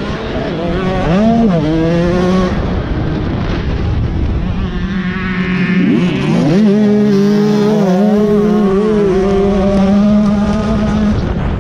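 Dirt bike engine revving on a motocross track: its pitch drops and climbs with throttle and gear changes, climbs again midway, then holds fairly steady, over steady wind and track noise.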